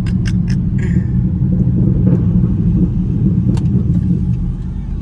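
Dodge Charger SRT8's 6.4-litre HEMI V8 running with a steady, deep rumble through a straight-piped exhaust while the car is driven.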